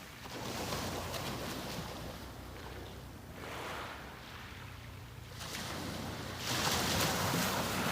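Small sea waves breaking and washing up the beach in repeated surges, the loudest near the end, over a steady low hum.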